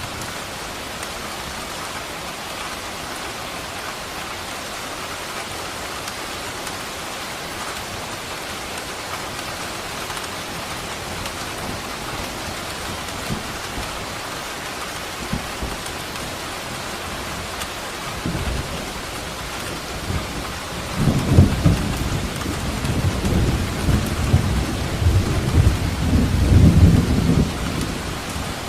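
Steady heavy rain falling, with a long roll of thunder building from about two-thirds of the way in and rumbling loudest near the end before easing off.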